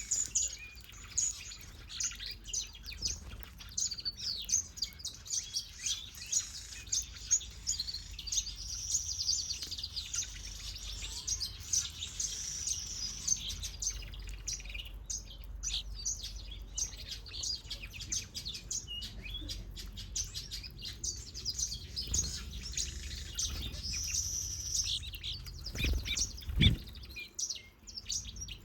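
Many small aviary birds, finches and softbills, chirping and twittering at once in a dense, overlapping chorus of quick high notes and short trills. Near the end come two brief low thumps.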